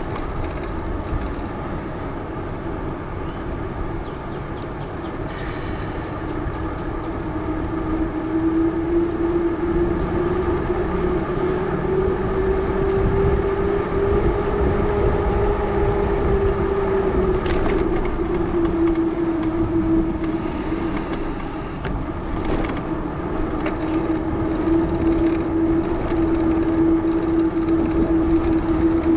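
Tire hum from the 650b tires of a Salsa Journeyman bicycle rolling on pavement: a loud, steady hum whose pitch rises a little and falls again as the speed changes, over a low rumble.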